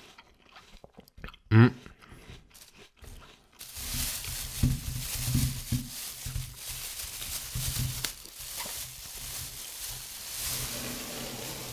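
A person chewing a bite of crisp apple close to the microphone, with irregular crunching and mouth noise starting about four seconds in after a mostly quiet stretch. There is one brief loud sound a little before two seconds in.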